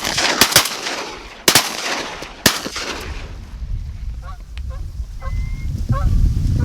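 A volley of about five shotgun blasts from Winchester Super X4 semi-automatic shotguns, two of them close together, over the first two and a half seconds, fired at Canada geese coming in to decoys. Then geese honking.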